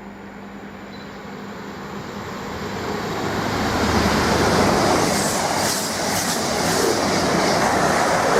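A train approaching, growing steadily louder over about four seconds, then passing close by with loud, steady wheel-on-rail rumble and hiss.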